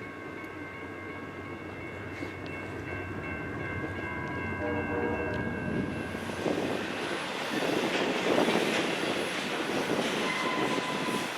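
A train passing on the rails, its wheel and rail noise growing louder from about halfway in, with repeated knocks. Steady high-pitched tones sound through the first half, then fade.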